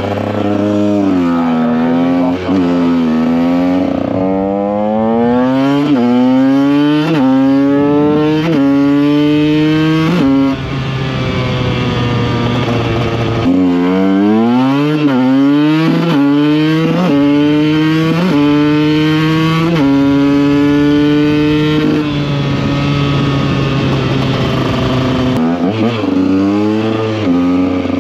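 Two-stroke supermoto engine heard from on board, accelerating hard through the gears: the pitch climbs and then drops sharply at each upshift, in two runs of several shifts each. Between the runs it holds a steadier pitch, and near the end there are a few quick revs up and down.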